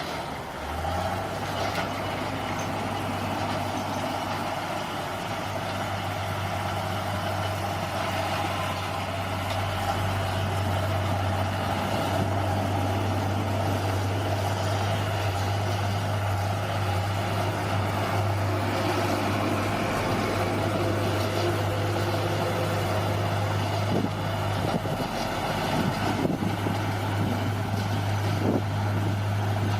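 Bulldozer's diesel engine running steadily, with a few sharp knocks or cracks near the end.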